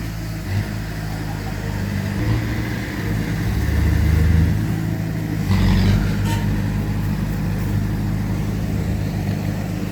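Diesel engines of heavy earthmoving machinery running steadily, growing louder briefly about four seconds in and again about six seconds in.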